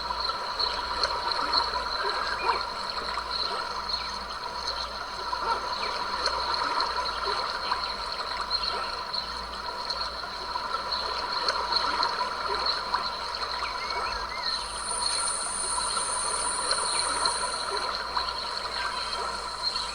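Small creek trickling and gurgling steadily, with a high hiss joining for a few seconds about three-quarters of the way through.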